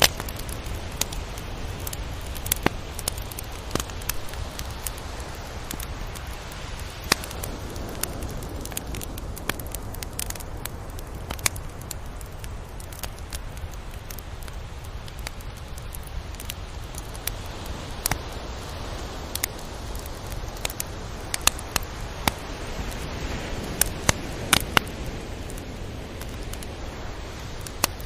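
Tropical beach ambience: a steady wash of surf noise that swells and eases slowly, with scattered sharp clicks and crackles throughout.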